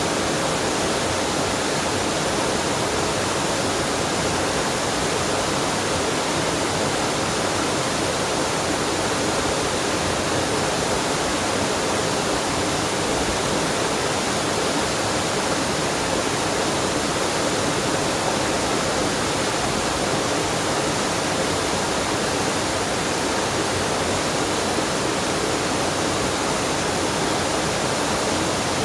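Waterfall and mountain stream: water pouring and rushing in a steady, even roar.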